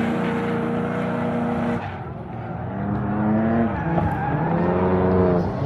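Drift car's engine held at steady high revs for about two seconds. After a sudden change, the revs climb, drop back about three and a half seconds in, and climb again.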